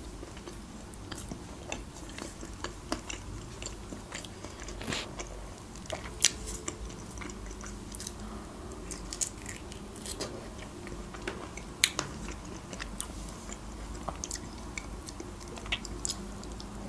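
A person chewing and biting forkfuls of layered cake, with wet mouth sounds and irregular sharp clicks, two of them louder about six and twelve seconds in.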